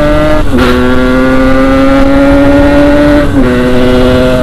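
Yamaha RX-King 135cc two-stroke single running hard under acceleration, its pitch climbing slowly and dropping sharply twice, about half a second in and about three seconds in, as it shifts up a gear, with a low wind rumble underneath.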